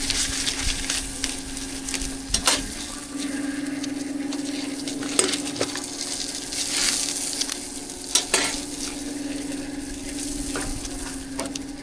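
Street-food pancake sizzling as it fries on a hot griddle, with a steady hum underneath and a few sharp metal taps of a utensil, about three seconds apart.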